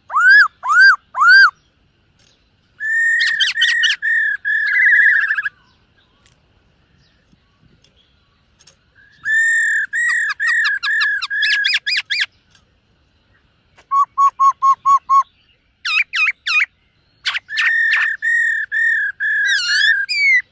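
Black-throated laughingthrush singing loud, clear whistled phrases of repeated rising-and-falling notes, each phrase a quick run of similar notes with short pauses between phrases. One phrase near the middle is a rapid run of lower, shorter notes.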